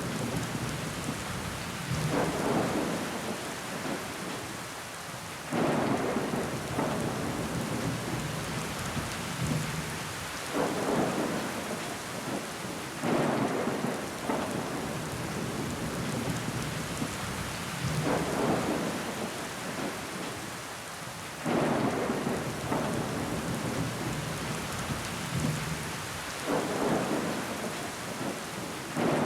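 Steady rain pattering on a window pane, with a louder, deeper surge that starts suddenly and fades every few seconds.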